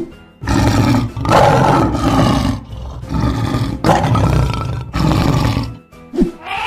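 Lion roaring repeatedly: several long roars in a row with short breaks between them, stopping about six seconds in.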